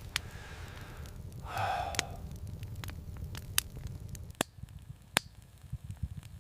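Wood fire crackling, with a handful of sharp separate pops over a low steady rumble.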